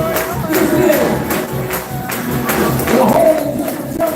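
Gospel praise music with a tambourine keeping a steady beat and voices singing over it.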